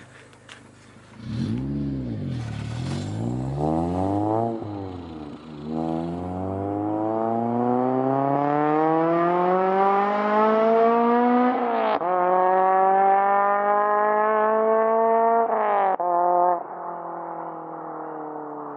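Honda Civic Si's 2.0-litre K-series four-cylinder through a PLM header and K-Tuned 3-inch exhaust. The engine blips twice, then pulls hard with the pitch rising for about six seconds. After a quick upshift it climbs again, shifts once more and settles into steady running.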